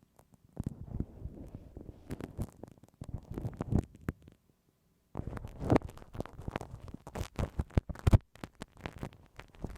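Bamboo ear pick scraping and rubbing against a binaural microphone's ear, in quick irregular strokes, with a pause of about a second near the middle.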